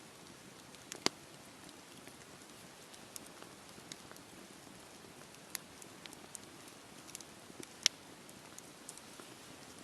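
Wood fire crackling in a fireplace: a faint steady hiss with scattered sharp pops, a strong one about a second in and the loudest about eight seconds in.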